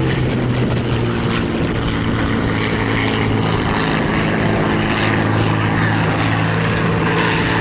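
Spitfire Mk IX's Rolls-Royce Merlin V12 engine running steadily as the fighter flies its display, a continuous propeller drone with wind noise on the microphone.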